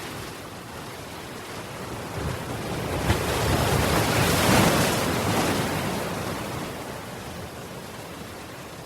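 Ocean waves surging onto the shore: one wave swells up to its loudest about four to five seconds in, then washes back and fades.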